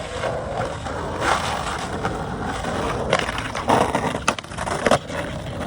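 Skateboard wheels rolling on rough pavement, with several sharp clacks of the board between about three and five seconds in.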